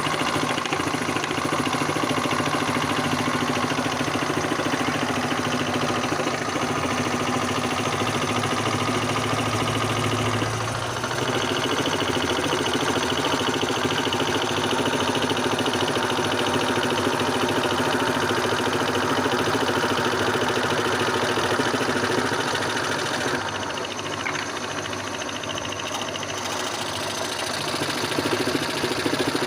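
Homemade scroll saw running steadily, its motor humming and the blade rattling rapidly up and down as it cuts. The sound changes briefly about a third of the way in, and drops slightly in level for a few seconds near the end.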